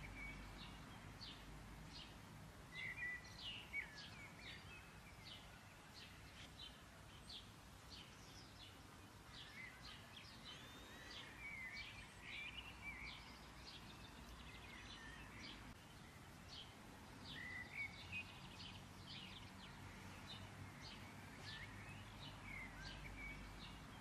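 Faint small birds chirping repeatedly in the background, short chirps several times a second over a low steady hum.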